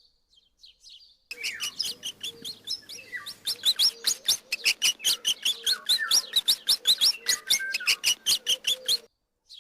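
Mouse squeaking: a fast run of short, high squeaks, about five a second, starting about a second in and stopping shortly before the end.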